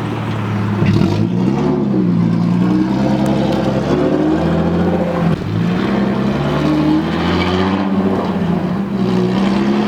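Straight-piped BMW E36's engine pulling hard, loud, its pitch climbing and dropping several times with sudden dips as it changes gear.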